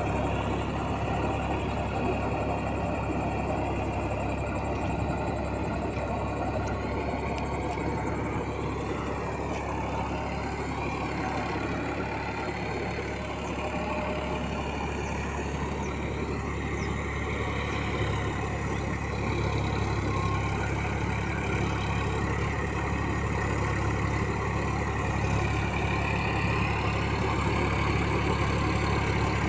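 Massey Ferguson 9000 tractor's diesel engine running steadily in a low drone, a little louder in the second half.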